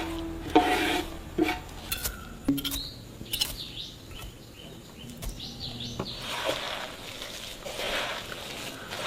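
A few sharp knocks and clatters, with faint bird chirps in the middle and a soft rushing noise near the end.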